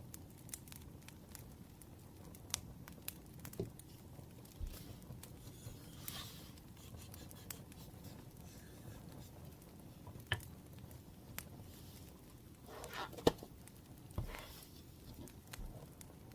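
Wood fire crackling quietly, with scattered sharp pops and ticks. A few soft rustles come in, and a louder knock lands a little past two-thirds of the way through.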